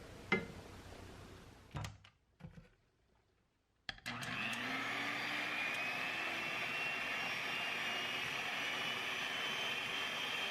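A sharp click with a brief ring, a couple of soft knocks, then about four seconds in a small electric motor starts up, its pitch rising briefly before it runs steadily.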